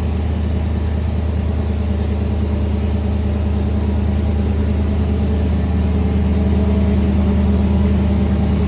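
Farm vehicle's engine running steadily at low revs with a deep drone while it backs slowly into position.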